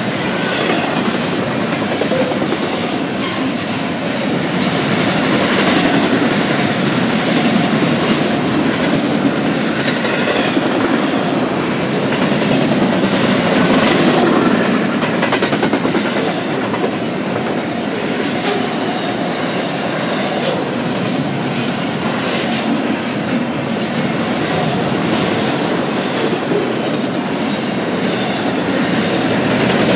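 Double-stack intermodal freight train's well cars rolling past: a steady rumble of steel wheels on rail, with repeated clicks and clanks as the wheels cross rail joints.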